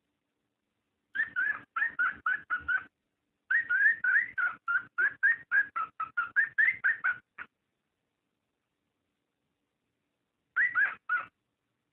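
Cockatiel mating call: quick runs of short, rising, whistled chirps, about four a second. They come in three bursts, the middle one the longest and the last one short near the end, with dead silence between them.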